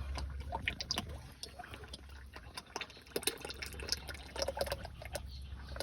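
Used engine oil from a Cat D6B dozer's engine running from the drain into a catch pan, with many small drips and splashes.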